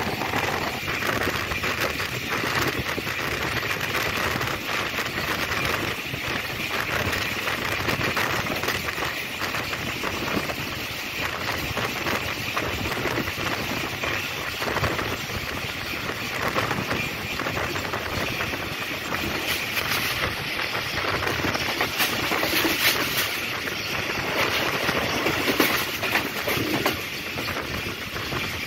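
Passenger train running on the line: a steady rumble and rattle of coach wheels on the rails, with frequent irregular clatter.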